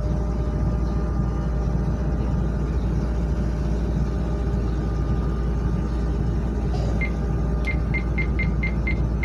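Steady low rumble of a 70-metre ship's engines running. Near the end, a quick run of short high electronic beeps, about five a second.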